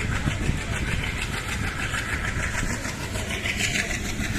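Passenger train running along the track, heard on board as a steady rumble and rattle of the coach.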